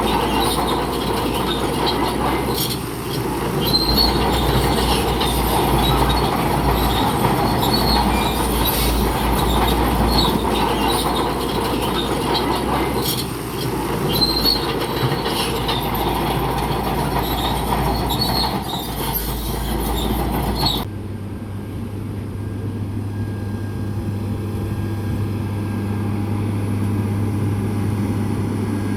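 Crawler bulldozer working, its diesel engine running under clanking steel tracks with repeated high squeals. About two-thirds of the way through, the sound cuts abruptly to a steadier low engine drone.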